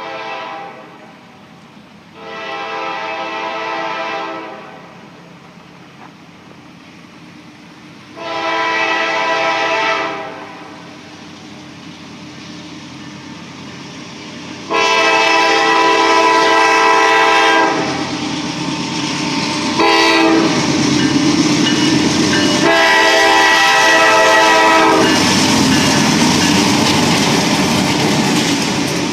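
Diesel locomotive's multi-chime air horn blowing a series of blasts, ending in long, long, short, long, the grade-crossing warning signal. The train comes up loud and rumbles past with wheel clatter from about halfway through.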